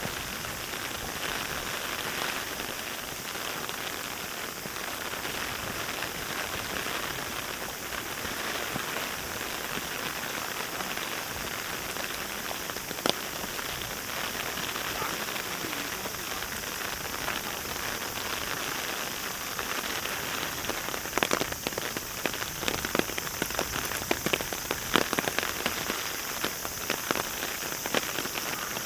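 Steady heavy rain falling, an even hiss. It carries one sharp tap about thirteen seconds in and a run of louder, irregular taps in the last third.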